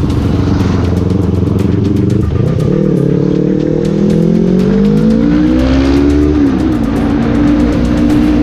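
Motorcycle engine revving: its pitch climbs slowly for about four seconds, then drops back suddenly and settles to a steady note.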